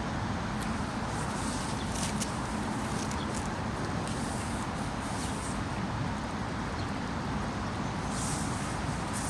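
Heavy downpour in woodland: a steady, even rush of rain and running water, with several brief faint high-pitched flicks over it.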